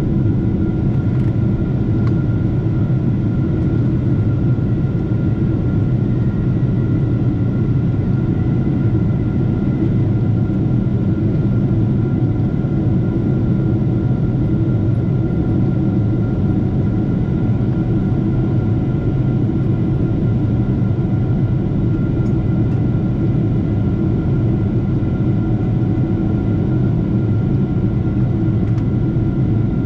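Steady cabin noise of a Boeing 747-8 under way: a dense low rumble of engines and airflow, with a few thin steady whining tones above it. The sound neither rises nor falls.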